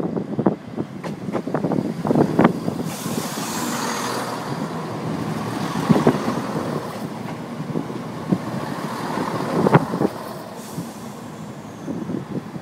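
Train moving through a station: wheels clicking and knocking over the rail joints with a steady rumble, and two short hisses, about three seconds in and again near the end.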